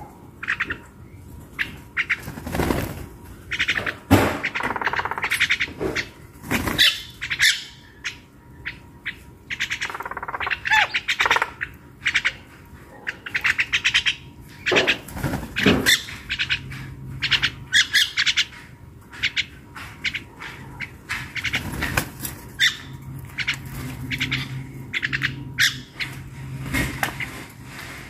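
Birds calling again and again: a continual string of short chirps and rasping calls.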